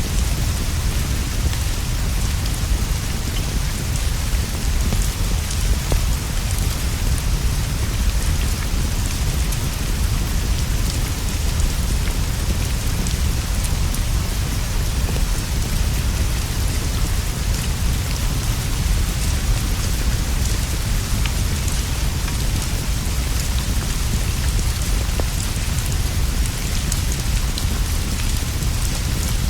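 Steady, even rainfall with a deep low rumble underneath, and a few faint scattered crackles from a wood fire.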